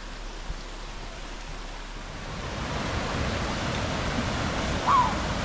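Rushing river water in a rainforest gorge, a steady hiss that grows louder about two seconds in. A brief high chirp sounds near the end.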